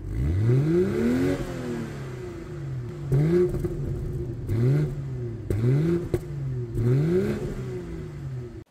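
BMW X3 M40i's turbocharged 3.0-litre straight-six revved while parked, heard from the exhaust: one long rev right at the start, then several short, quick blips of the throttle, each dropping back to idle.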